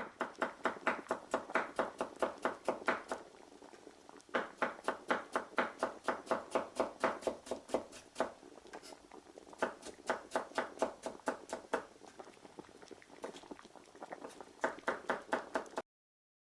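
Kitchen knife chopping on a wooden cutting board, about four or five strokes a second, in four runs with short pauses between them, cutting off suddenly near the end.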